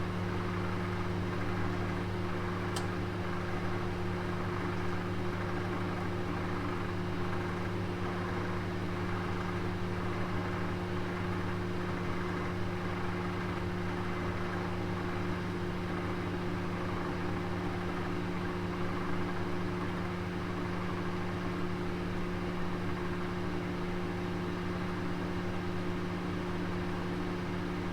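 Oven running with a roast inside: a steady electric hum and fan-like whir that does not change, with one faint click about three seconds in.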